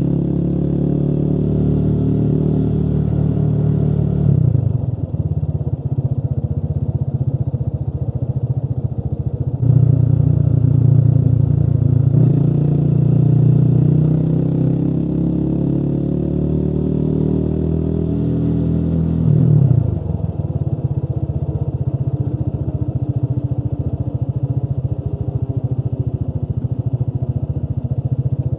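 Motorcycle engine running on the road. Its pitch climbs as it accelerates, then drops sharply at gear changes about four and a half seconds and nineteen and a half seconds in, before it settles into a steady cruise.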